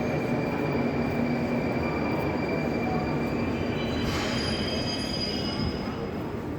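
Moscow metro train running along the station platform, its wheels squealing in long, high, steady tones over the rumble.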